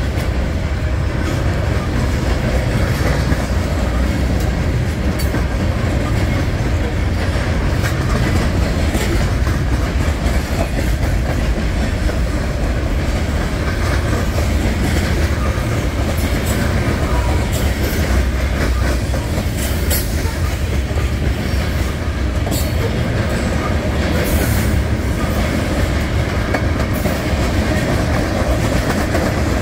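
Mixed freight train of boxcars, covered hoppers and tank cars rolling past: a steady rumble of steel wheels on rail with scattered clicks from the wheels.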